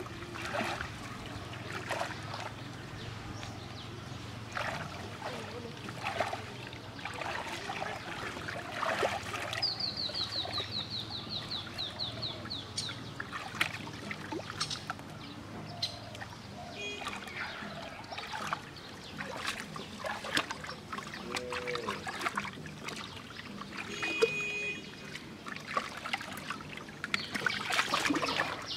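Water splashing and trickling in irregular bursts. About ten seconds in, a bird trills a run of quickly repeated falling notes, and a few short calls come later.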